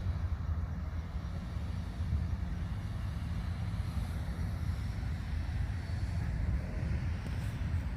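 Steady low rumbling noise with a fainter hiss above it, even throughout.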